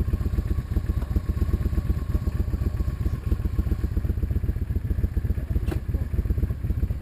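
A vehicle's engine running under way, with a rapid, even low pulsing. There is a short click about six seconds in.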